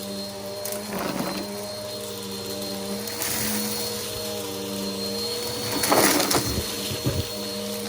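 Bissell PowerForce Helix upright vacuum running steadily, a motor hum with a thin high whine. Two brief crackling bursts come through, about a second in and again around six seconds.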